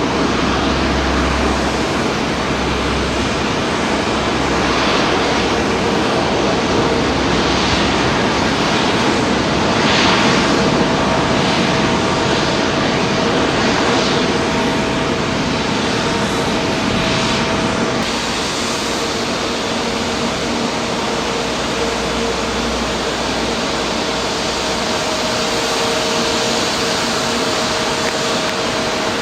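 Airliner engines running: a loud, steady rushing noise with a few steady whining tones in it. The sound shifts abruptly about two-thirds of the way through.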